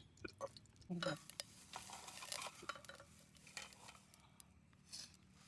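Faint clinks, knocks and scraping of utensils against a metal cooking pot.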